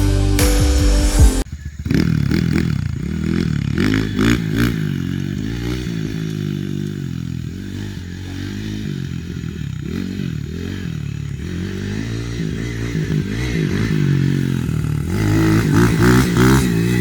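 Background music ends about a second and a half in. Then the small single-cylinder engine of a Z40 Max pit bike runs, its revs rising and falling again and again as if it is being ridden, and gets louder near the end.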